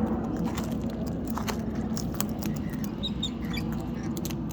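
A white cockatoo cracking seed in its beak: irregular small crunching clicks over a low steady hum, with a few faint high chirps about three seconds in.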